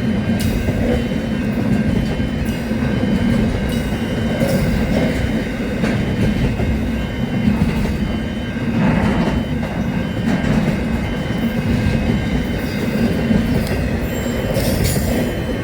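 Train running along the track: a steady heavy rumble with a few steady high-pitched tones held over it.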